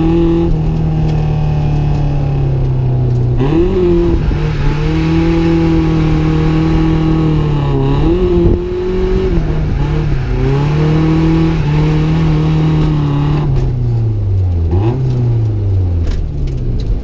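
Nissan 240SX drift car's engine held at high revs through a drift run, heard from inside the car. The revs dip and pick back up several times, then fall away near the end.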